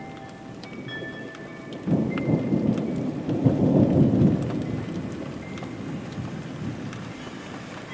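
A roll of thunder over steady rain: the rumble swells suddenly about two seconds in, peaks around the middle and fades away, while the rain hisses throughout.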